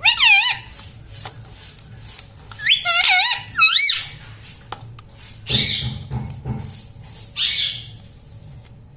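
Indian ring-necked parakeet giving short, high, squeaky calls that swoop up and down in pitch: one at the start, then a quick run of several a few seconds in. Two harsher squawks follow in the second half.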